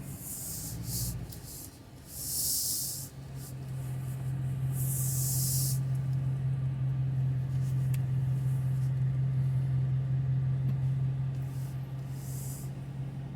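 Steady low engine drone heard inside a moving car's cabin, with several short bursts of hissing.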